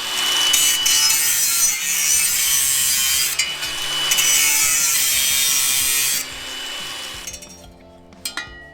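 English wheel rolling a steel sill repair panel back and forth, a loud, even scraping hiss in long passes. It stops about six seconds in.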